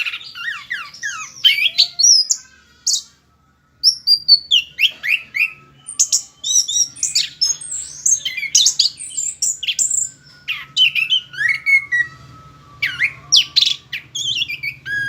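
Chestnut-capped thrush (anis kembang) singing a long, unbroken run of rapid, varied whistles, trills and chirps, many of them sweeping in pitch, with a short break about three seconds in.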